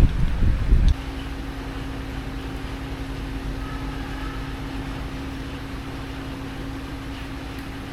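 A loud, low, uneven rumble for about the first second, then a steady hum from an electric motor running at a constant speed.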